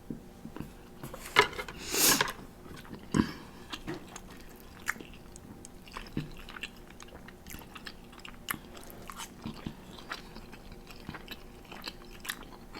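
Close-miked eating sounds: a person chewing spicy instant noodles, with many small mouth clicks and a few louder noisy bursts in the first few seconds, the longest about two seconds in.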